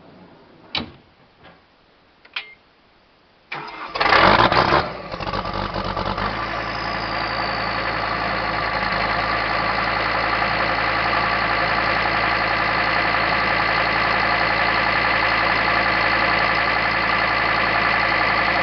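John Deere 325 skid steer's turbocharged diesel on a semi-cold start: a few clicks, then the starter cranks and the engine catches with a loud burst about four seconds in, settling to a steady idle. A thin high whine joins the idle soon after it settles.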